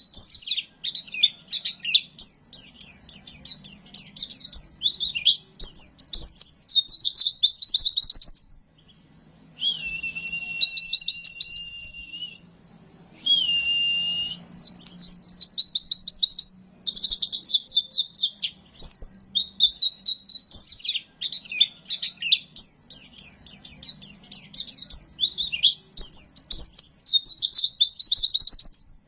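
White-eye (pleci) song in the rapid 'zipper' style: long runs of fast, high trills, broken by a few held whistled notes and short pauses about nine and twelve seconds in. A faint low hum runs underneath.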